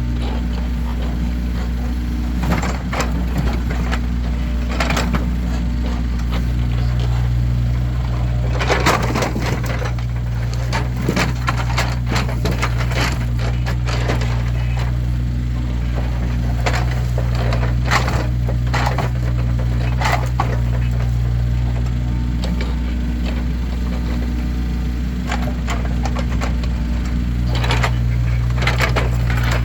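Split firewood logs knocking and clattering as they are handled and stacked, in irregular wooden knocks, several close together at times. A steady low hum runs underneath.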